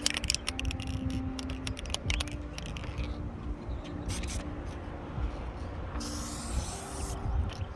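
A run of clicks and scrapes, then a hiss of clear coat being sprayed onto a headlight lens, lasting about a second from around six seconds in and starting again just at the end. Under it is a low rumble of highway traffic.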